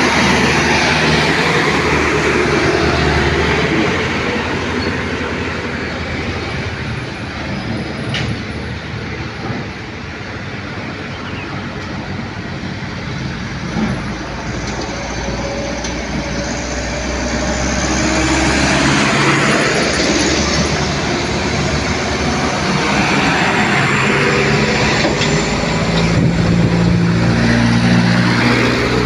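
Heavy diesel trucks running past on a winding road, engine drone and tyre noise. The sound is loudest at the start, dips, then swells again over the second half, and an engine note rises near the end.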